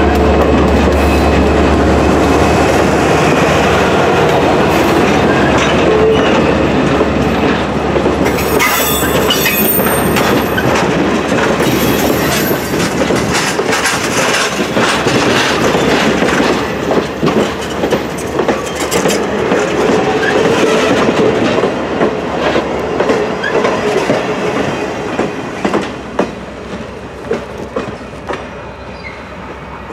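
Passenger cars of a train rolling past on a curve: steel wheels clicking over rail joints, with a high flange squeal about ten seconds in. The lead diesel locomotive's low drone fades over the first several seconds, and the whole train grows quieter near the end as the last car pulls away.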